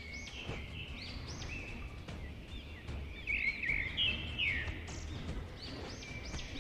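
Small birds chirping quietly, short arched chirps about two a second, over a low rumble.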